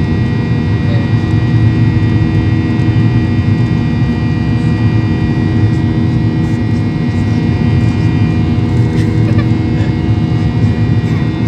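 Boeing 737-800 cabin noise: its CFM56-7B jet engines and airflow heard from inside the cabin, a steady loud rumble with several held tones, unchanging throughout.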